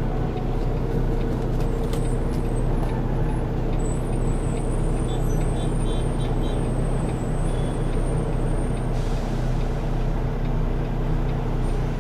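Semi-truck diesel engine running steadily at low revs, heard from inside the cab as the tractor-trailer is manoeuvred slowly, with a brief faint air hiss about nine seconds in.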